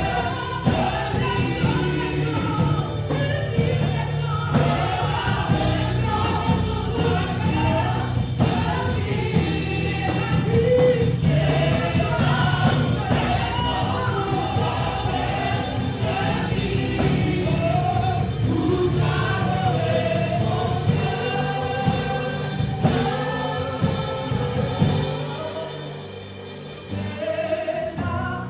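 Gospel worship song sung by a group of voices over instrumental accompaniment, easing down in loudness near the end.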